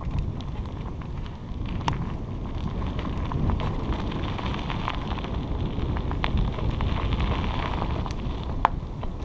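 Wind buffeting the microphone over the rolling noise of bicycle tyres on a dirt trail, a steady rumble with scattered small clicks and crackles and one sharper tick near the end.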